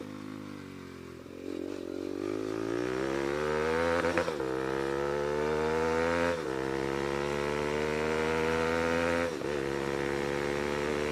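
Bajaj Pulsar NS200's single-cylinder engine through an aftermarket SC Project exhaust, accelerating under way: the revs climb, drop back at a gear change about four seconds in and again around six and a half and nine and a half seconds, then pull on.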